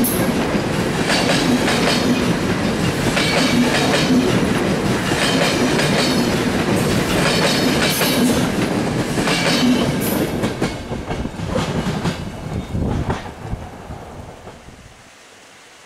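Passenger coaches of a diesel-hauled InterCity train rolling past at close range, the wheels clattering over the rail joints in a string of sharp clicks. The sound dies away over the last few seconds as the end of the train goes by.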